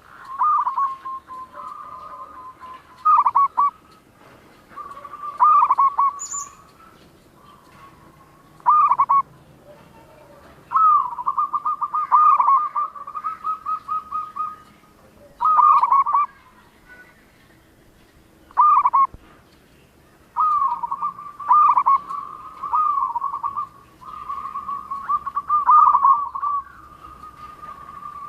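Zebra dove (perkutut) singing: repeated phrases of quick, pulsing coo notes broken by sharp falling notes, a new phrase every one to three seconds.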